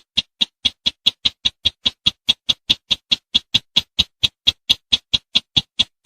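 Call of the sintar semak (bush sintar) bird: a rapid series of short, sharp, high notes, about five a second, quickening in the first second and easing slightly near the end.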